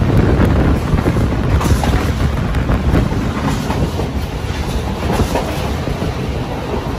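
Passenger train running along the rails: a steady, loud rumble with irregular clicks of the wheels passing over rail joints.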